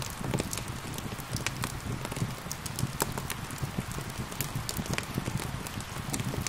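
Wood fire crackling with frequent sharp, irregular pops over a steady hiss of rain.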